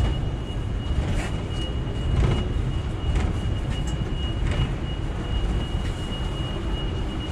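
Hong Kong double-decker electric tram running along its track, heard from on board: a steady low rumble with a thin high whine, and several knocks and clacks from the wheels and rails.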